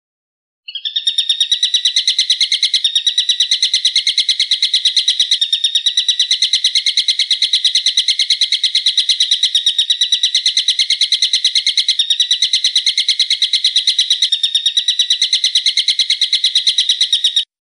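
A bird call made of rapid, evenly repeated sharp high notes, about nine a second, held without a break for some sixteen seconds; it starts abruptly under a second in and cuts off abruptly near the end, as an edited recording.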